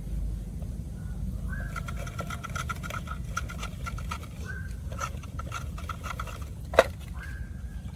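Bird calls: short whistled notes, each followed by quick pulsed trills, repeating several times over a low steady rumble. A single sharp knock comes near the end.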